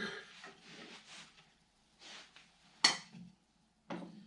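A few knocks and clinks of cocktail-making gear (bottles, jigger and shaker) being handled and set down on a counter, the sharpest about three seconds in.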